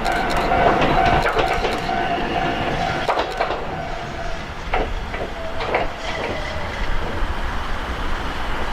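Ichibata Electric Railway 7000-series electric railcar moving through the station: wheels clicking over rail joints, with a steady whine that fades out about four seconds in.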